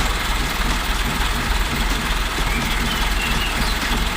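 Heavy diesel engine of a concrete mixer truck idling steadily with a low, rapid throb.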